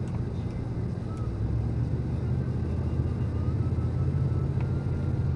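Snowblower's small engine running steadily, a low hum that grows louder about a second and a half in.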